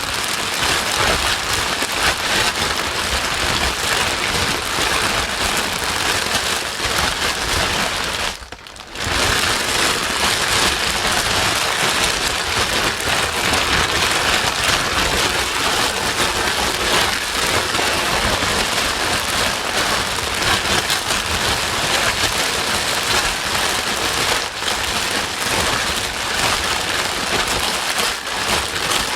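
Steady white noise with a rain-like hiss, played to soothe a crying baby. It dips for a moment about eight seconds in, then carries on unchanged.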